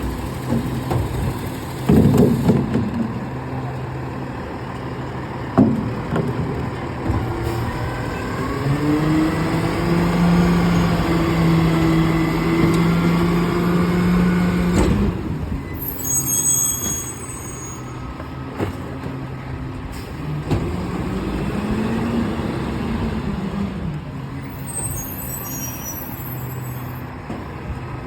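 Garbage truck working at the curb: its engine runs steadily, with a loud bang about two seconds in and a knock a few seconds later, then revs up and holds for several seconds before dropping back suddenly. Sharp air-brake hisses follow, and the engine rises and falls once more.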